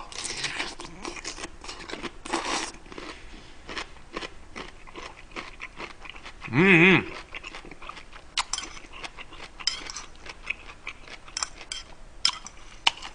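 Close-miked eating of Chapagetti noodle stew: chewing and mouth clicks from noodles and rice cakes, many short smacks throughout. About six and a half seconds in, a brief hummed "mm" from the eater.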